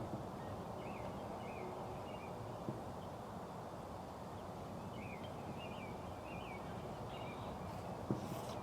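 Birds chirping faintly in short calls over a steady outdoor hiss, with a few single knocks, the sharpest right at the start and near the end.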